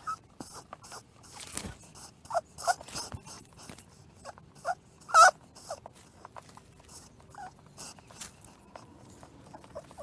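Small animal giving short, high squeaks and whimpers at irregular intervals, amid scratchy clicks and rustling.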